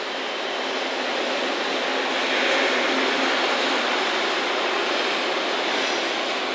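JR Freight EF210 electric locomotive hauling a container freight train through the station without stopping: a rush of wheel and running noise that swells over the first two and a half seconds as it arrives, then holds steady as it runs past.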